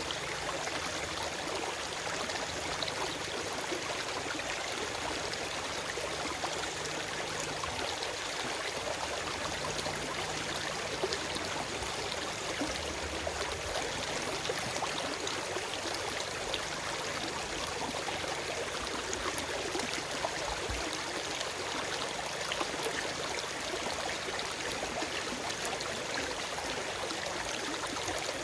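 Forest stream flowing over rocks: a steady rush of running water with fine splashes and trickles, no birds.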